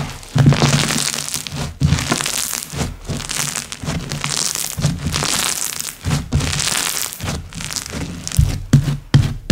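Slime being kneaded and squished by hand: a run of noisy squishes about a second long each, with soft thuds between them as it is pressed down.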